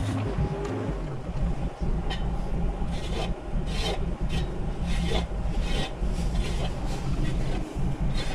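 Mini excavator running steadily while its bucket scrapes repeatedly over the ground and debris, several rasping scrapes in a row.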